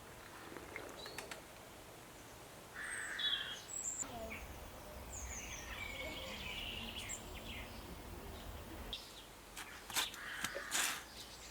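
Garden birds chirping, with short high calls clustered a few seconds in. A few sharp clicks or knocks come near the end.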